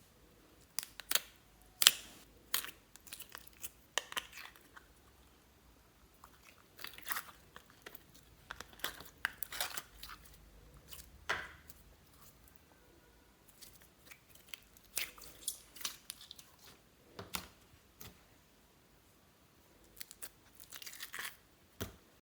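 Slime being handled by hand: a string of sticky clicks, crackles and short tearing sounds at an uneven pace, in clusters with brief quiet gaps.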